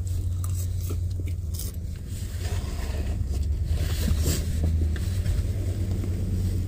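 Soft chewing and a few faint fork clicks while eating, over the steady low hum of the idling truck heard from inside the cab.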